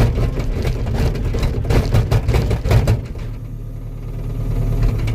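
Compact tracked machine's engine working hard, with repeated metallic clanks and rattles for about three seconds. The engine then drops back to a quieter run and builds again near the end.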